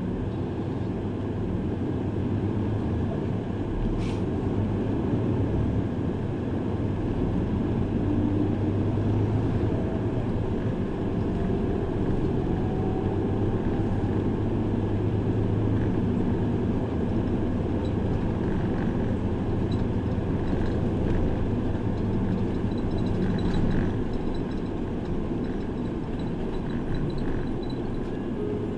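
Route bus under way, heard from inside the cabin: engine and road noise make a steady low drone whose engine pitch wavers slightly. There is a single sharp click about four seconds in.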